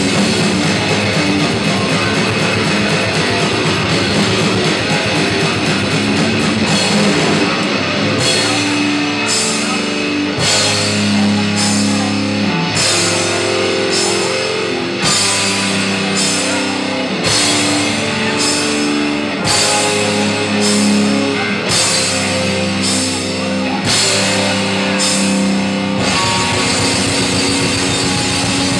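Death metal band playing live: distorted guitars and drums, dense and fast at first, then settling about eight seconds in into a slower groove with heavy accents a little faster than once a second under held chords.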